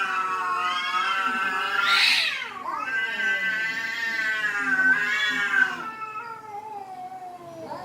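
Cats yowling at each other in long, drawn-out, wavering calls, one swelling louder about two seconds in, with two voices overlapping later: the caterwauling of cats squaring off in a quarrel.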